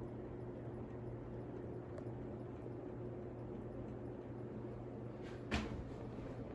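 Casablanca Four Seasons II ceiling fan running with a steady motor hum, and a single sharp click about five and a half seconds in.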